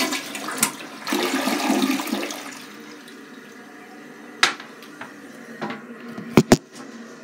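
Glacier Bay dual-flush toilet flushing: a loud rush of water for the first two seconds or so, then the quieter steady hiss of the tank refilling. A few sharp clicks come about halfway through and twice in quick succession near the end.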